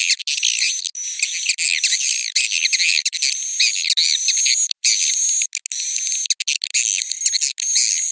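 Swiftlet roosting-call lure recording: dense twittering and chirping of many edible-nest swiftlets, with a steady high whistle-like tone running through it. The track is cut by several brief, sudden gaps, as in an edited loop.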